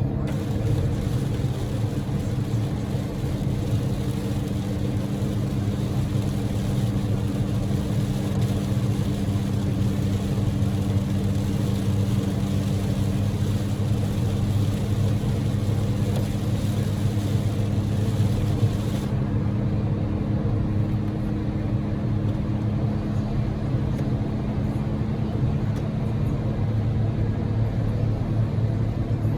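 Daihatsu Move's 660 cc three-cylinder EF-VE engine running at a steady cruise, heard inside the cabin under a dense hiss of heavy rain and tyre spray on a wet road. The high part of the hiss drops away suddenly about two-thirds of the way through.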